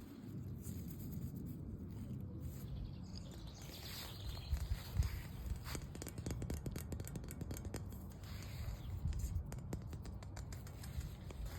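ASMR tapping and scratching on an object: scattered taps and scrapes, turning into a quick run of small ticks about halfway through, over a steady low rumble.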